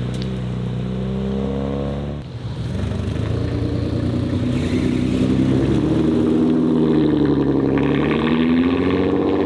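Modified car engine accelerating, its pitch rising. About two seconds in it drops off briefly, as at a gear change, then it pulls again, rising and falling in pitch.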